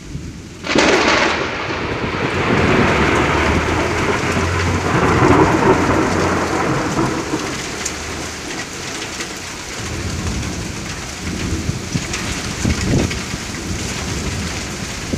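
Thunder cracks suddenly under a second in and rolls on for several seconds, fading away, over steady rain.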